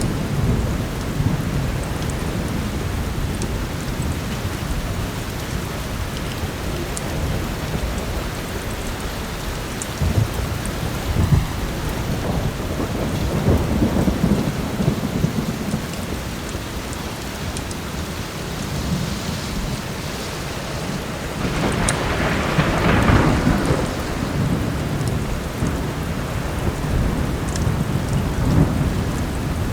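Heavy rain falling steadily under rolling thunder, with a longer, louder thunder rumble about two-thirds of the way through. Faint sharp crackles from a wood fire come through here and there.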